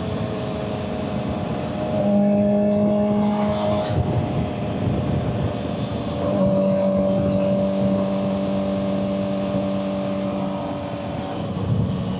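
Suzuki GSX-R600's inline-four engine running under way at steady revs, louder for a couple of seconds about two seconds in and again from about six seconds, under a wash of riding noise.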